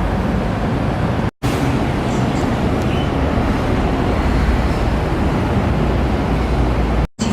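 Steady road traffic noise, an even rushing haze that drops out abruptly twice for an instant.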